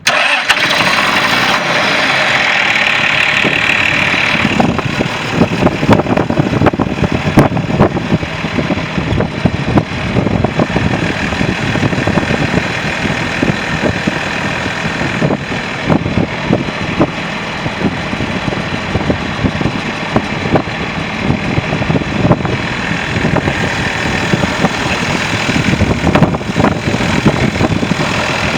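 John Deere 4630 tractor's six-cylinder turbocharged diesel engine running at idle, steady throughout.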